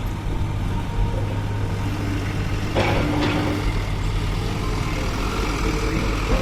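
Heavy diesel engine of a dump truck or excavator running steadily at a low, even pitch, with a brief clatter about three seconds in.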